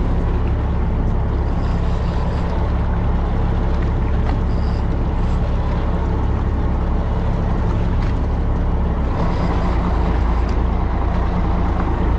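Fishing boat's engine running steadily with a constant low drone, over a haze of water and wind noise; the drone shifts slightly about nine seconds in.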